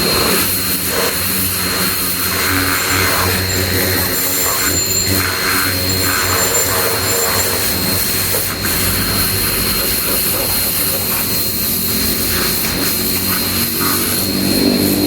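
Ava P25 high-pressure washer running, with a steady motor hum and a thin high whine, while the water jet hisses in uneven spurts.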